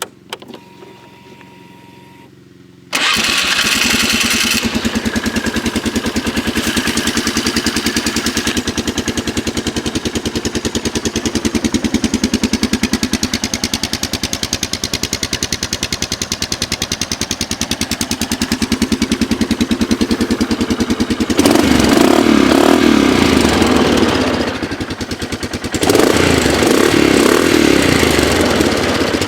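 Polaris Sportsman X2 500 ATV's single-cylinder engine, breathing through a G.P.R. Deeptone aftermarket exhaust, starts about three seconds in and idles with an even exhaust pulse. It is revved up twice near the end, each time louder and fuller.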